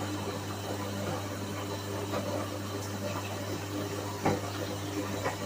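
Whirlpool washing machine running with a steady motor hum, with a sharp knock about four seconds in and another near the end.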